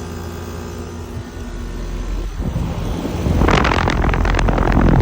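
A 5-ton Trane XR14 heat pump outdoor unit running in cool mode: a steady compressor and fan hum with several fixed tones. Over the second half a loud rushing, fluttering air noise builds up, like the fan's discharge blowing across the microphone, and it falls away sharply at the end.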